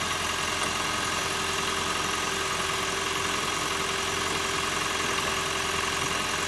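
Toyota Prius's petrol engine running at a steady idle while it warms up, before the hybrid system shuts it off.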